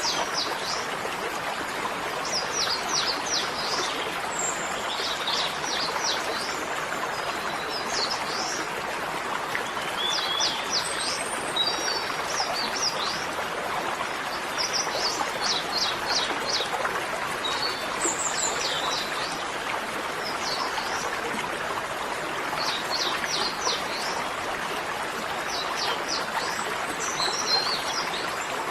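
Small birds chirping in quick runs of four to six short high notes every couple of seconds, over a steady rushing noise.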